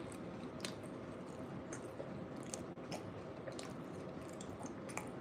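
Close-miked chewing of a bean burrito, with irregular small mouth clicks and smacks.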